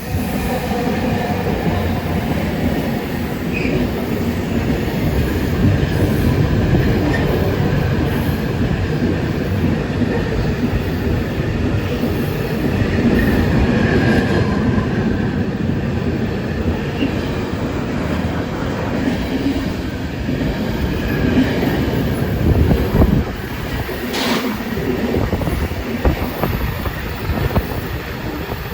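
A train passing close by on the rails: a loud, continuous rumble of wheels and cars that comes in abruptly at the start, with occasional sharp knocks.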